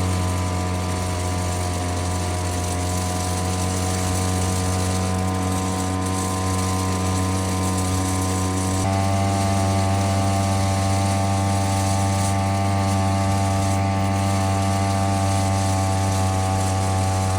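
Cheap two-stroke mini outboard motor running steadily under way, driving a kayak. Its pitch steps up slightly about nine seconds in as the throttle is opened a little more.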